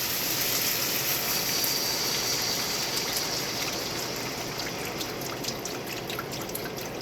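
Beef broth being poured into a hot skillet of reducing red wine, a steady liquid hiss that eases off, with small crackles of the simmering pan in the second half.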